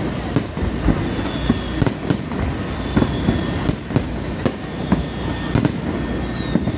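Aerial firework shells bursting in a rapid, irregular run of sharp bangs, several a second, over a steady low rumble.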